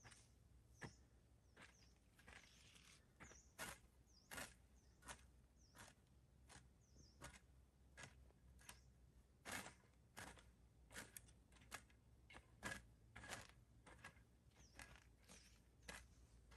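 Faint footsteps of a person walking at an even pace, about one and a half steps a second, with a few faint high chirps in the first few seconds.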